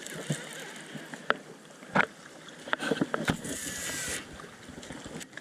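Sharp knocks and clicks on a fishing boat, the loudest about two seconds in, with a short hissing rush a little past three seconds in.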